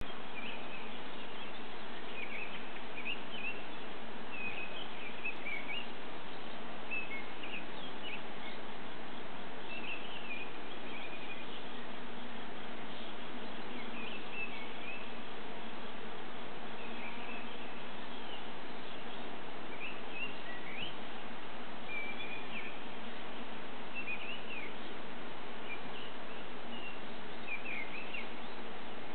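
Songbirds chirping and singing in short phrases every second or two over a steady background hiss.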